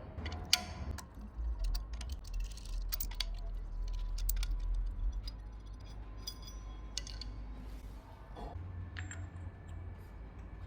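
Scattered light metallic clicks and clinks of hand tools and fittings being handled, some with a brief ring, over a low workshop hum.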